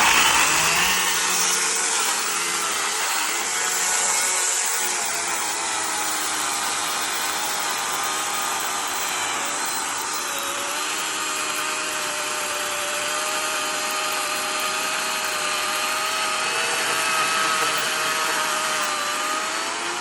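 DeWalt 60-volt brushless battery chainsaw running and cutting through a tree trunk: a loud steady motor whine whose pitch wavers as the chain works through the wood.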